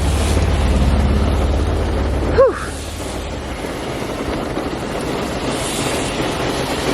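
Steady rain and wind noise, with wind buffeting the microphone as a heavy low rumble for the first two and a half seconds. A short vocal sound rises and falls about two and a half seconds in.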